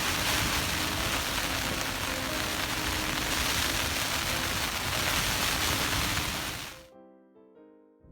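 Steady rushing noise of strong wind over background music. The noise fades out about seven seconds in, leaving only the music.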